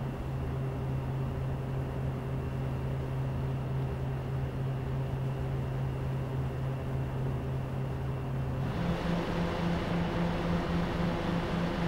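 Computer CPU cooler fans running steadily with a low hum and even air rush, then stepping up to a higher speed about nine seconds in, with louder, brighter air noise and a higher-pitched hum.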